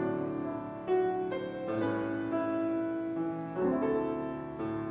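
Piano playing a slow instrumental interlude of struck chords between sung verses, each chord ringing and fading before the next.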